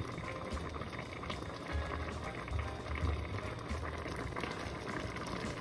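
Pot of chicken mushroom soup bubbling at a steady simmer on the stove.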